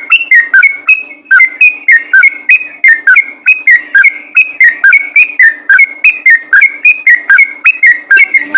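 Yellow-vented bulbul (trucukan) singing in rapid song: a loud, unbroken run of short whistled notes, about four a second.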